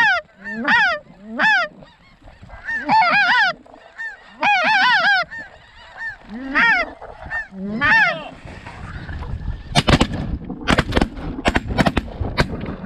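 Snow geese honking: short high calls that rise and fall, repeated singly and in quick clusters through the first eight seconds. Then a rising rush of noise with several sharp knocks takes over.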